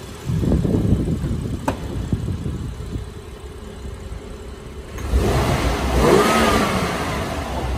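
Tuned BMW F10 5 Series petrol six-cylinder engine being revved with blips of the throttle: a short rev just after the start, then a bigger, longer rev about five seconds in that rises and falls back toward idle.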